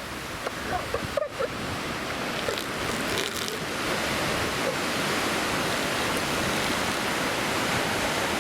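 Ocean surf breaking and washing on the beach, a steady rushing noise.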